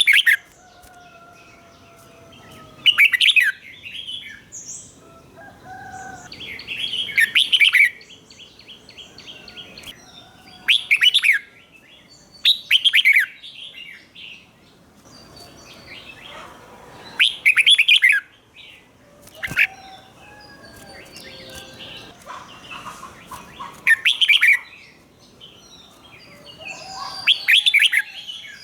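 Red-whiskered bulbul singing: short, loud, bright song phrases repeated every few seconds, with softer chirps and whistles in between.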